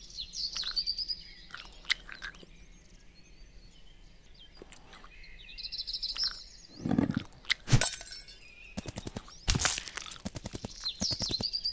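Forest ambience with birds chirping. From about halfway come loud cartoon sound effects: heavy thumps and crunching hits, then a run of rapid clicks, as bananas are smashed on a plate.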